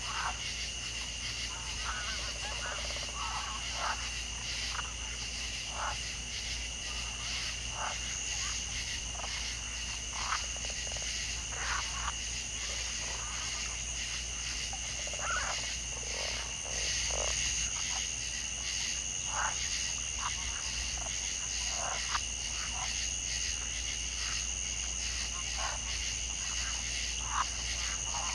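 Chorus of frogs and insects: a steady high-pitched trilling that does not let up, with short croaks or calls every second or two over it.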